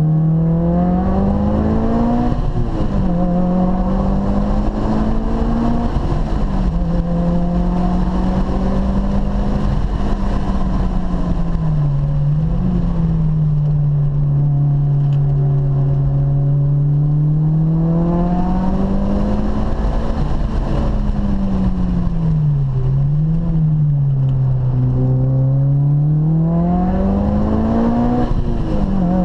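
A car's engine heard from inside the cabin while driving hard on a race track, the engine note rising under acceleration and falling off through corners, with sudden drops in pitch at gear changes. Steady road and tyre noise runs underneath.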